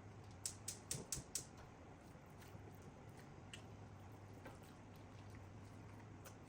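Close-up eating sounds of someone eating curry and rice: a quick run of about five sharp clicks in the first second and a half, then a few faint scattered ticks, over a low steady hum.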